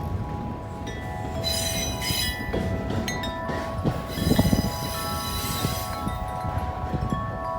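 Corinthian Bells 36-inch wind chime ringing in strong wind, with fresh strikes about a second and a half in and again about four seconds in, over the low rumble of a freight train rolling past.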